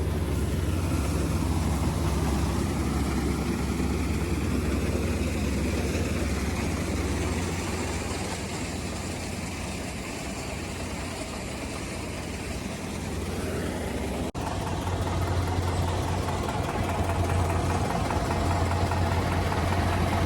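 Tractor diesel engine running steadily, dipping a little in the middle. After a sudden brief break about fourteen seconds in, it runs louder.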